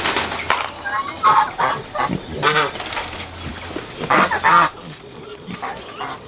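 Farm birds calling: a few short, honk-like calls, the loudest pair about four seconds in.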